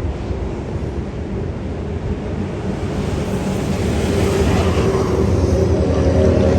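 Transperth A-series electric train running along the platform, a steady rumble that grows louder over the last few seconds, with a hum of several steady tones coming in near the end.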